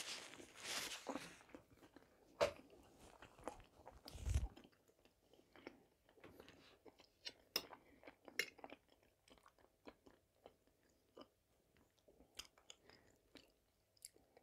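Faint, close-miked chewing and mouth sounds of a person eating boiled potato vareniki. There are a few soft clicks, and a dull bump about four seconds in.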